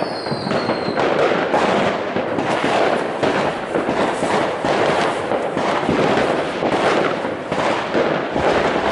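Fireworks and firecrackers going off all around in a dense, continuous barrage of bangs, pops and crackling. A falling whistle is heard during the first second.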